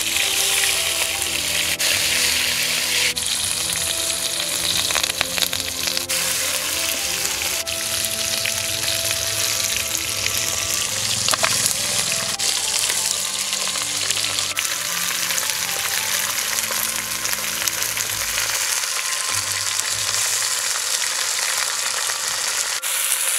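Food frying in hot oil in a clay pot: a steady, dense sizzle as the gravy's ingredients cook.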